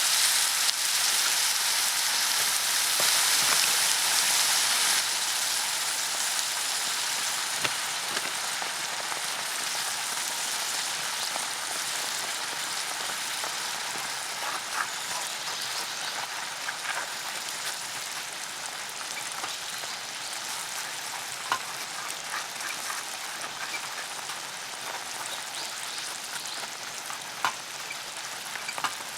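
Monjayaki batter sizzling on a hot iron griddle. The sizzle is loud at first and slowly dies down, with scattered small pops and ticks later on.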